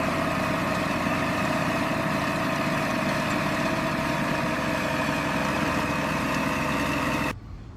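Steady engine idling sound, even and unchanging, that cuts off suddenly near the end.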